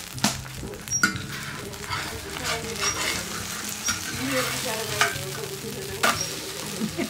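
Pancake batter and green onions sizzling in oil in a large cast-iron pan. A metal ladle and spatulas scrape and knock against the pan every second or so as the pancake is spread and turned over.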